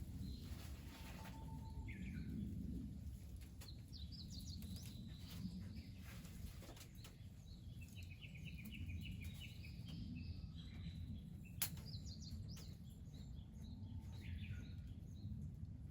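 Small birds chirping and trilling in short, rapid runs of notes over a low steady rumble, with one sharp click about two-thirds of the way through.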